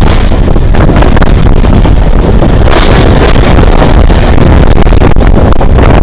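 Suburban electric local train running along the track, heard from its open doorway, with loud wind buffeting the microphone.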